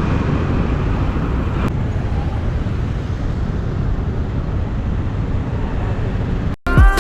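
Steady low rumble of a Bajaj Pulsar NS200 motorcycle and surrounding traffic heard from the rider's camera. The bike's exhaust has been modified with holes that make it loud. Near the end the sound cuts out abruptly and music begins.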